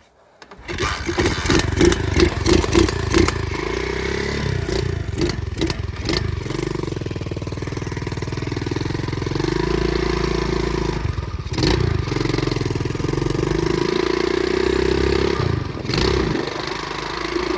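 Pit bike engine coming in suddenly about a second in, blipped several times in quick succession, then running steadily with the revs drifting up and down.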